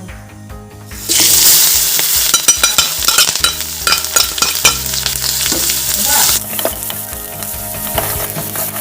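Food sizzling in hot oil in a pan while it is stirred, starting suddenly about a second in and easing off a little past the middle.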